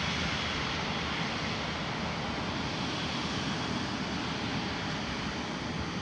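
Jet engines of an Airbus A350 airliner (Rolls-Royce Trent XWB) running steadily as the aircraft taxis past: a continuous rush with a faint high whine over it.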